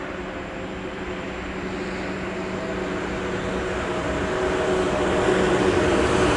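Electric train approaching on the line, its running noise growing steadily louder, with a steady hum of several tones over it.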